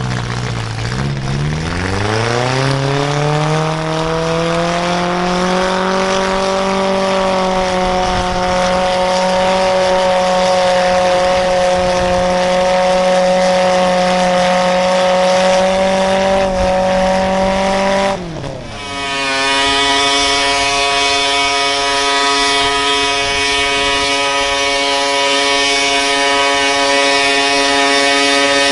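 A pulling vehicle's engine revs up over the first few seconds and is held at high, steady revs under load. About 18 seconds in it drops sharply, then settles into a steady, high-pitched drone.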